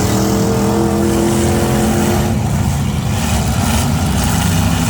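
V8 demolition derby car engines running at once, one revving up in a rising pitch over the first two seconds before the sound settles into a rough low rumble.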